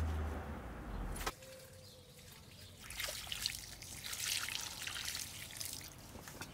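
A low rumble stops abruptly about a second in. From about three seconds in, water trickles and pours with an uneven hiss.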